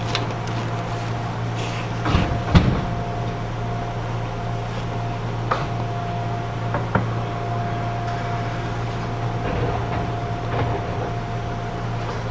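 Steady hum of the air conditioning inside a Gakunan Railway 7000 series railcar, with a faint steady whine over it. A few knocks and clunks come about two seconds in, and single clicks later.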